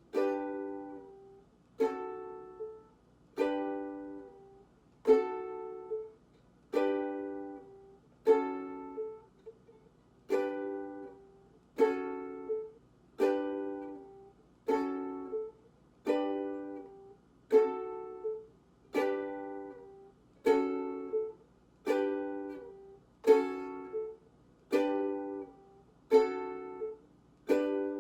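Ukulele chords strummed slowly, one strum at a time, a little over one a second. Each chord is left to ring and fade before the next, as in a chord-change practice drill.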